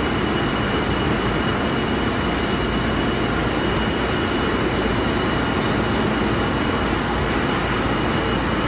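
H860B industrial vacuum cleaner running steadily, a constant rushing motor noise with a thin high whine.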